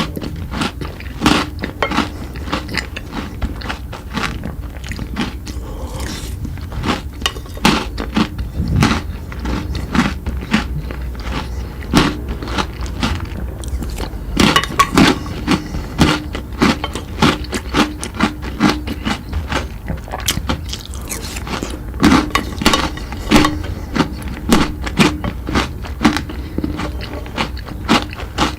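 A person biting and chewing crunchy chocolate sweets, with many sharp cracks and crunches following one another irregularly.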